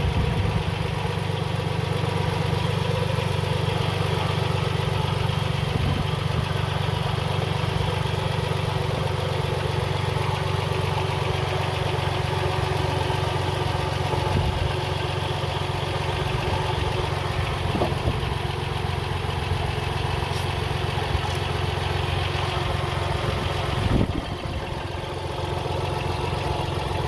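A 2004 Toyota Sienna's 3.3-litre V6 idling steadily, with a few faint knocks. This is the engine whose rattling noise the owner is tracing, with antifreeze leaking from beneath a pulley.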